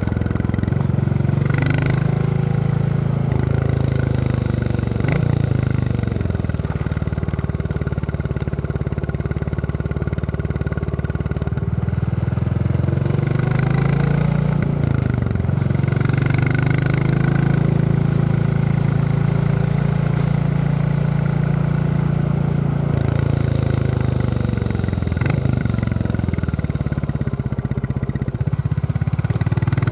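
Royal Enfield Classic 350's single-cylinder engine thumping while the bike is ridden, the revs dropping and picking up again about three times.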